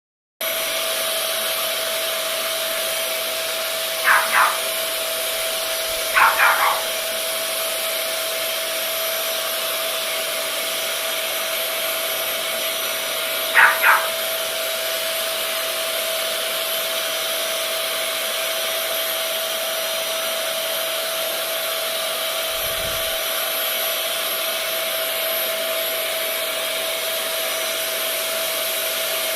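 Vacuum cleaner running steadily with a constant whine, while a French bulldog barks in short bursts: twice about four seconds in, three times a couple of seconds later, and twice again near the middle.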